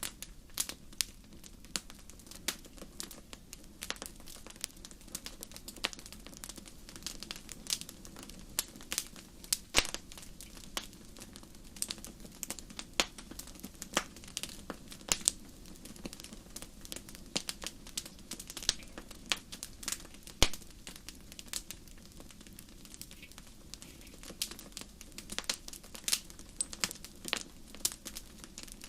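Wood bonfire crackling: irregular sharp pops and snaps, several a second, some louder than others, over a low, steady background rush.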